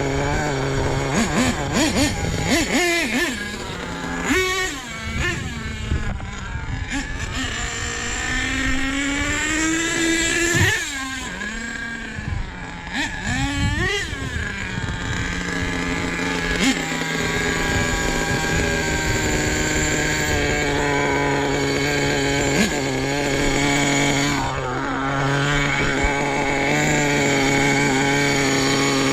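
Nitro RC truck engines running hard, their pitch rising and falling as they rev and pass. From about halfway through, a single engine holds a steady pitch.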